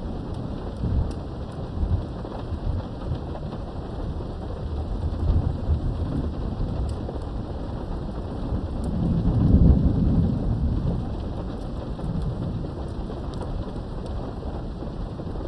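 Steady rain heard from indoors behind a window, with low rolling thunder that rumbles on and off and swells to its loudest about nine to ten seconds in.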